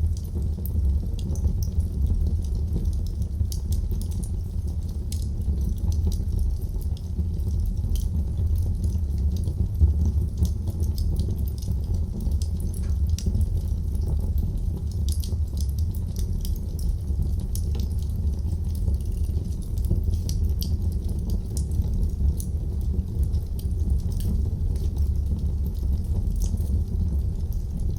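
Wood fire burning in a fireplace: a steady low rumble from the flames with many small, irregular crackles and pops.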